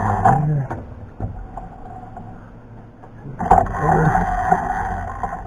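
A machine-shop electric motor, likely on the milling machine, runs with a steady whine. It cuts off just after the start, stays off for about three seconds, then runs again for about two seconds near the end.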